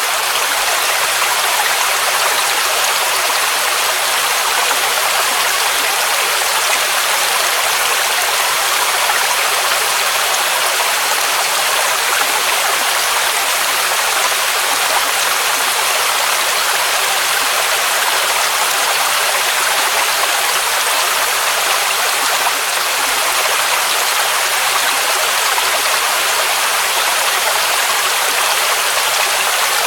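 Mountain waterfall rushing steadily: a constant, even roar of falling water, hissy and bright with little bass.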